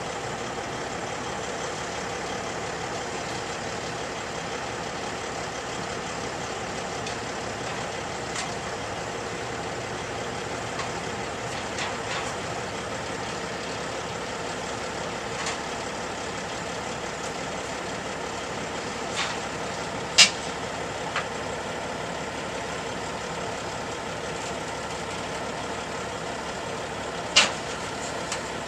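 A vehicle engine idling steadily, with a few short sharp knocks over it. The two loudest knocks come about twenty seconds in and again near the end.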